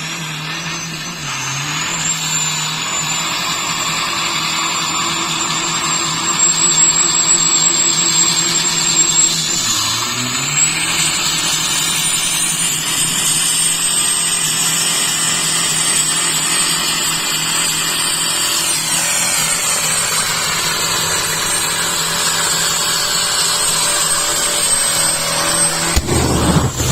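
Twin-turbo TDI diesel engine held at high, steady revs during a long burnout, with tyres squealing over it. The revs dip briefly twice, about a second in and about ten seconds in.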